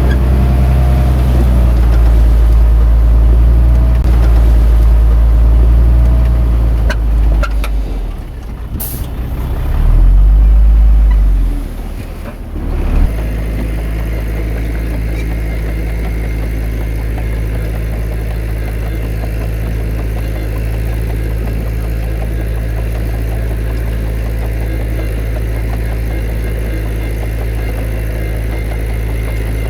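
Heavy diesel engine of earthmoving machinery, running loud, dipping and surging again about ten seconds in, then switching abruptly about thirteen seconds in to a steadier, quieter engine note.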